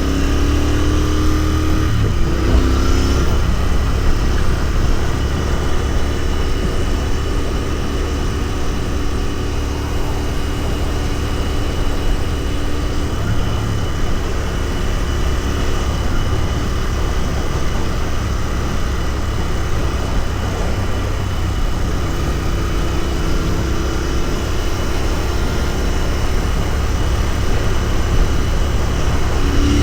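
Royal Enfield Continental GT 650's 648 cc parallel-twin engine running on the move. Revs climb and step through a gear change in the first few seconds, hold steady while cruising, then climb again in the last third.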